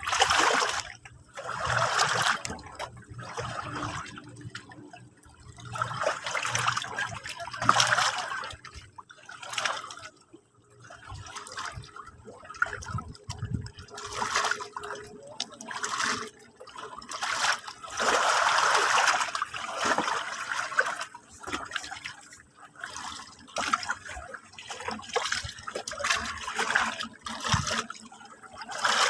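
Sea water lapping and splashing at the shore, in irregular surges every few seconds with many small splashes between them.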